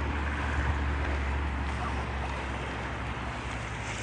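Wind rumbling on a phone microphone, a steady low rumble with a faint hiss above it, easing off slightly over a few seconds.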